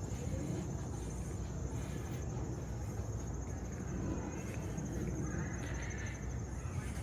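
Insects trilling steadily in one continuous, evenly pulsed high note, over a constant low rumble of city background noise.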